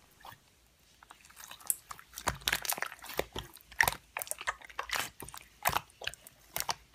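Slime being squeezed and poked by hand: irregular crackling clicks and small squishes, starting about a second in.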